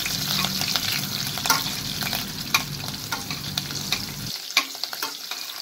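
Ghee and oil sizzling in a stainless steel pressure cooker as green chilli, ginger, curry leaves, black pepper and cumin fry for a tempering. A metal spoon stirs them, and frequent sharp clicks and pops break through the steady sizzle.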